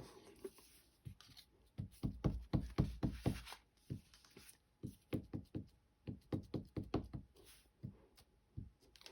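Light knocks and taps of paper-crafting stamping tools being handled on a tabletop. There is a quick run of taps about two seconds in, then scattered single knocks.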